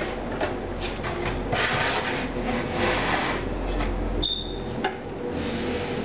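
Hands working on computer hardware: rubbing and scraping with scattered clicks and knocks as parts are slid and fitted into place, and one brief high squeak about four seconds in.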